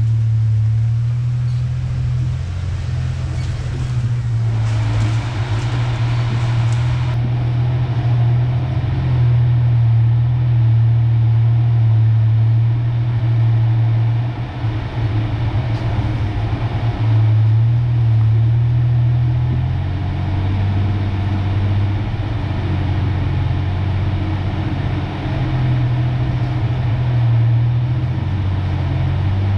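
1993 Ford Ranger pickup driving slowly on a dirt trail, its engine a steady low drone that swells and eases slightly with the throttle. A stretch of hissing noise, such as tyres on loose ground, rises over it from about four to seven seconds in.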